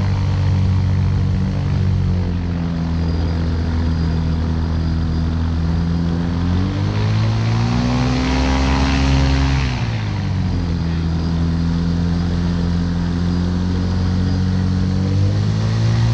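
Ultralight aircraft's engine and propeller running. The throttle is opened about seven seconds in, held for a few seconds, pulled back near ten seconds, and the engine starts to rise again near the end.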